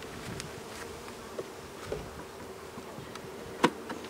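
Honey bees buzzing in a steady drone around an opened hive. A few sharp knocks and clicks come from the hive parts being handled as the feeder is lifted out; the loudest is about three and a half seconds in.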